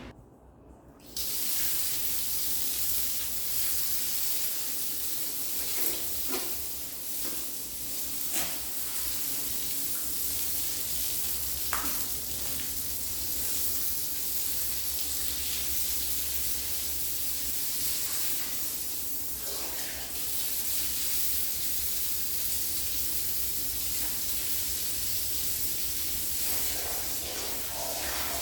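Water spraying in a steady hiss that starts about a second in, with a few light knocks, during household cleaning.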